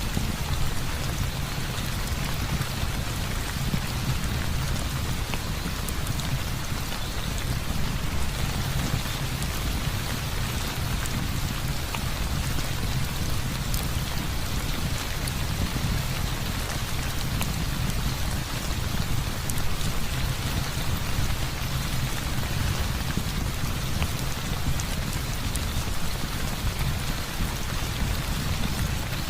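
Heavy rain falling steadily, with a continuous low rumble underneath and scattered faint ticks of drops.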